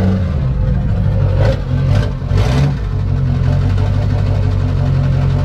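Diesel pickup engine running with the exhaust removed, open straight pipe. Three short throttle blips come about one and a half to two and a half seconds in, then it settles into a steady idle.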